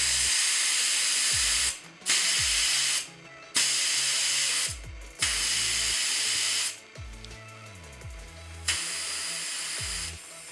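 Air hissing out of a motocross tire's valve in five bursts of about a second or so each, letting the pressure down after the beads were seated at around 3 bar.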